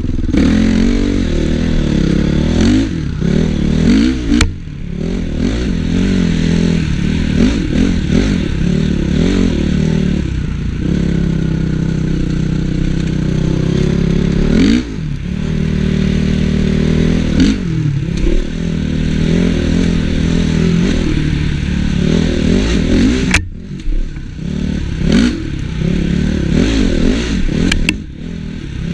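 Honda CRF450 motocross bike's single-cylinder four-stroke engine, ridden hard, its pitch rising and falling over and over as the throttle opens and shuts through the gears. The throttle snaps shut for a moment about two-thirds of the way through and again near the end.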